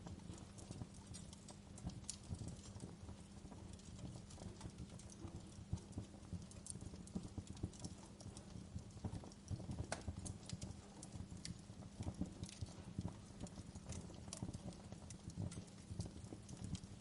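Fireplace crackling: irregular sharp snaps and pops over a low steady rumble.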